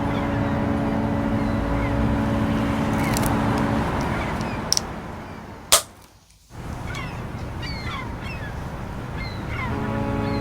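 A deep, steady horn blast holds for nearly four seconds and stops; a second blast begins near the end. Short, high, falling chirps and a constant rushing noise run underneath, with a sharp click a little past the middle followed by a brief dropout.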